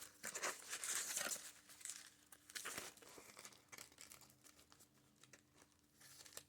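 Paper rustling and crinkling as the pages and paper pieces of a handmade junk journal are handled and turned, busiest in the first three seconds and fainter after.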